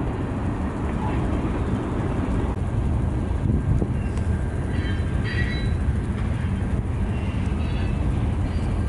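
Canadian National freight train rolling past, a steady low rumble of wheels on rail. Brief high-pitched wheel squeals come about halfway through and again near the end.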